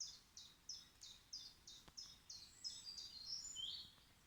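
A small songbird singing a fast series of repeated high notes, about three a second, which changes to a more varied phrase and stops just before the end.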